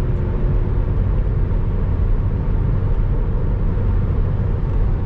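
Car driving at highway speed: steady road and wind noise, heaviest at the low end.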